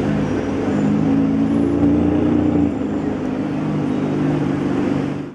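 Decatted Ferrari 599's V12 engine idling steadily with a low, even drone, its catalytic converters removed.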